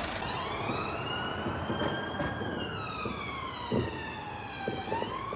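Police siren wailing: one slow rise and fall in pitch that starts climbing again near the end, with a few short thumps about two-thirds of the way through.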